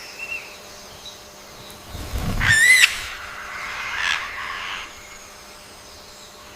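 A bird calling: one loud, wavering, high-pitched call about two seconds in, then a fainter call around four seconds.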